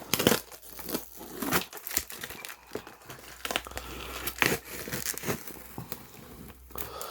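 Cardboard box packaging being peeled and torn open by hand, with irregular crinkling and tearing strokes.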